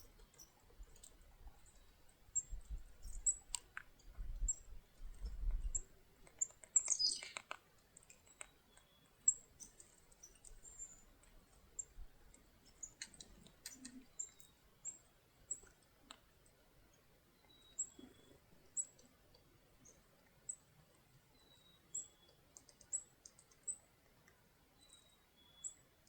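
Chickadees at a feeder calling: short, high chips repeated throughout, a louder falling call about seven seconds in, and a few soft whistled notes later on. A low rumble runs through the first few seconds, and scattered faint clicks are heard.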